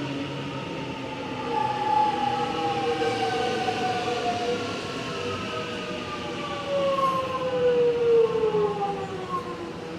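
Electric suburban train's traction motors whining as it slows into the platform, several tones gliding slowly down in pitch over the rumble of the train.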